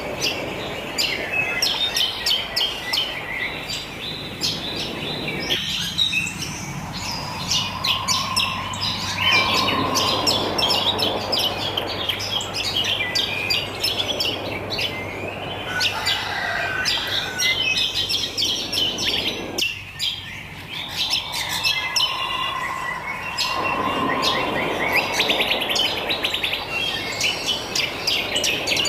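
Many wild birds chirping and twittering at once, a dense chorus of overlapping short calls and trills over a steady background noise.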